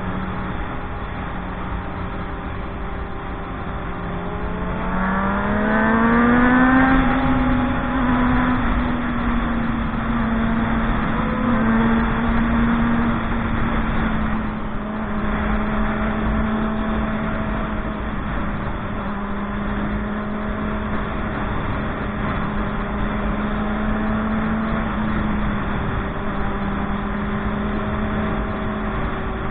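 Motorcycle engine running while riding, rising in pitch about five seconds in as it accelerates, then holding a steady speed with small dips. A low rumble of wind noise runs underneath.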